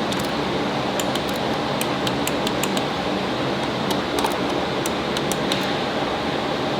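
A steady mechanical hum with small, sharp metallic clicks and clinks scattered irregularly through it.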